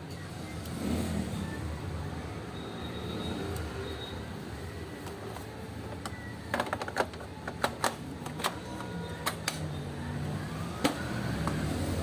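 Epson L8050 inkjet printer's mechanism running over a low steady hum, with a quick run of sharp mechanical clicks from about halfway through and a brief tone among them.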